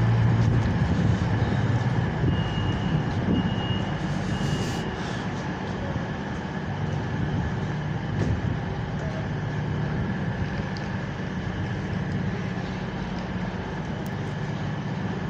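Class 323 electric multiple unit arriving at a station platform: a steady electric hum that eases off over the first few seconds as the train slows, with a brief thin high whine a few seconds in.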